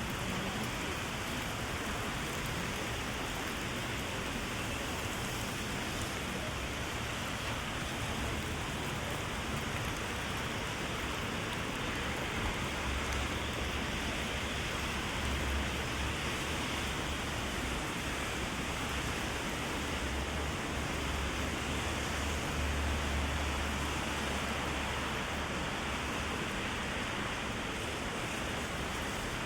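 Heavy rain falling steadily, pattering on an umbrella and the wet street as an even hiss. A low rumble comes in about halfway through and fades a few seconds before the end.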